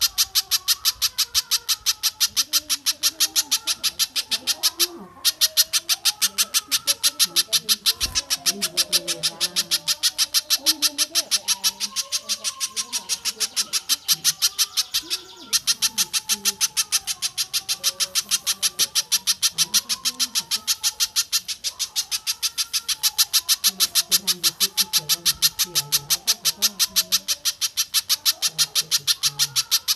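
Recorded bird calls looped for song-bird training: a fast, even rattle of sharp, harsh notes, broken by two short gaps about five seconds in and about fifteen seconds in.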